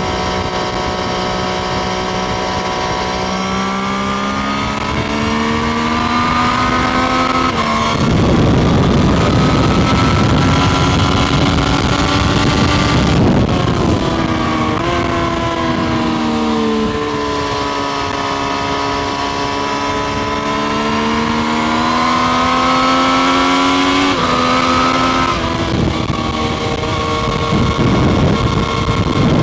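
Triumph Street Triple RS's 765 cc inline-three engine heard onboard while riding. It runs steadily, then pulls up through the revs in long climbs, the pitch dropping suddenly several times as gears change. Heavy wind rush comes in at the higher speeds.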